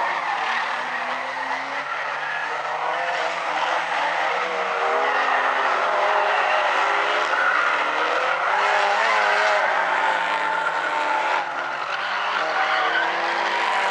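A pack of small race cars' engines running hard, their pitches rising and falling as they accelerate and pass, with tyres skidding and squealing.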